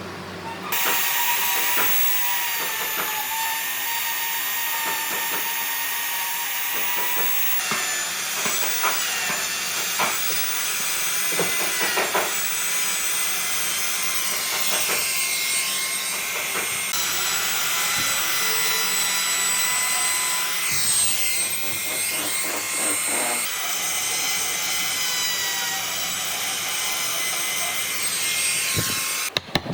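A power tool running against wood: a steady high whine over a loud hiss, changing abruptly several times.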